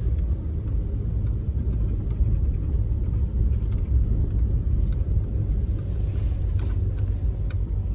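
Steady low rumble of a vehicle driving, engine and road noise heard from inside the cabin.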